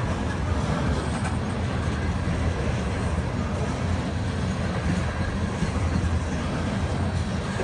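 Loaded coal train rolling by, a steady low rumble of cars on the rails.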